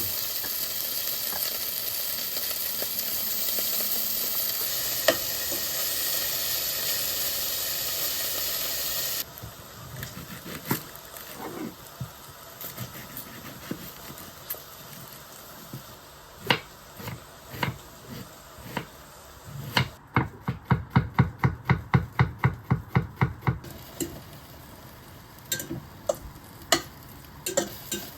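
Food sizzling in a frying pan, a steady hiss that cuts off abruptly about nine seconds in. Then come scattered knocks and clinks of cooking utensils, with a quick run of even strokes, about six a second, lasting a few seconds.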